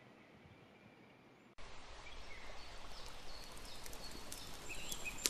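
Faint outdoor ambience that cuts off suddenly about a second and a half in, replaced by a louder woodland ambience of steady hiss with birds chirping.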